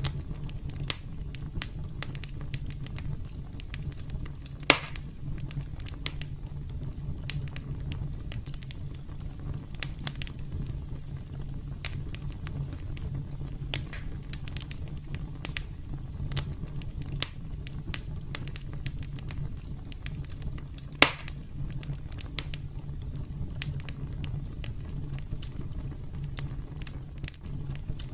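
Campfire crackling: a steady low rumble of burning wood with frequent sharp snaps and pops, two of them much louder, about five seconds in and again about 21 seconds in.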